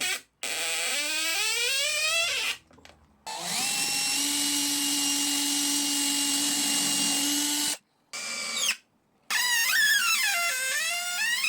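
Electric drill run in several trigger bursts: it speeds up, holds a steady whine for about four seconds, gives a short blip, then its pitch dips and climbs again as the trigger is eased and squeezed.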